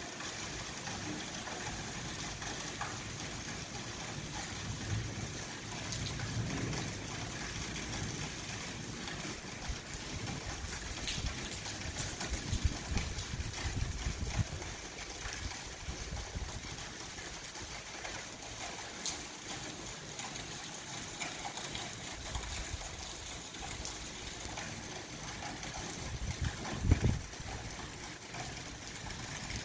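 Steady rain falling on a garden bed and wet pavement, an even hiss with scattered ticks of drops. A few low rumbles come and go through it, the loudest near the end.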